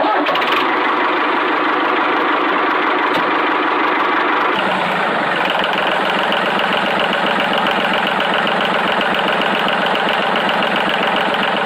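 Mini tractor's small engine running steadily with a dense mechanical clatter. About four and a half seconds in the sound changes to a more even, rapid pulsing.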